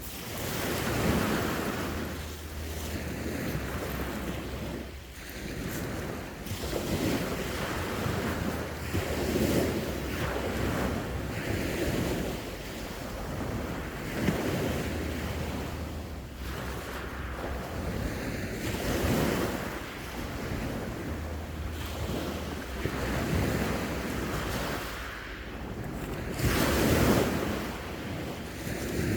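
Sea waves breaking and washing ashore, swelling and falling every few seconds, with wind buffeting the microphone in low rumbles.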